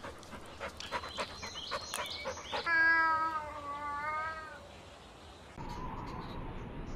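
A cat meowing: one long, wavering meow about three seconds in, after a run of light clicks and knocks.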